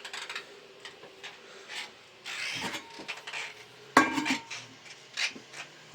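Irregular scraping and rubbing strokes from hand work on a surface, with a sharp knock about four seconds in.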